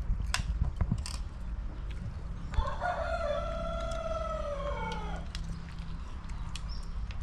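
A rooster crowing once: a single call of about two and a half seconds that rises in, holds steady, then falls away at the end. A few sharp clicks come in the first second or so.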